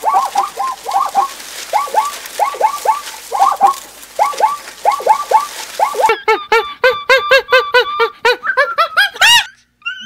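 Birds chirping in short falling notes, several a second. About six seconds in, the calls turn faster and shriller with sharp clicks, and one long swooping note comes near the end.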